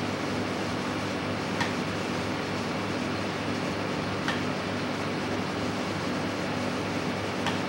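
A large engine running at a steady speed, with three short sharp knocks spaced a few seconds apart.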